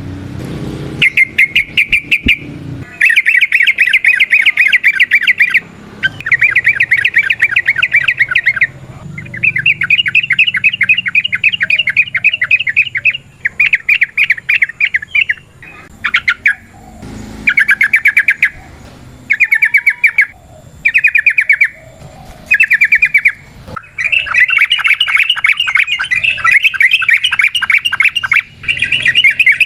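Yellow-vented bulbul (trucukan) singing its rapid chattering 'ropel' song: fast runs of repeated notes in phrases of one to four seconds with short breaks, shorter phrases midway, and a long unbroken run near the end.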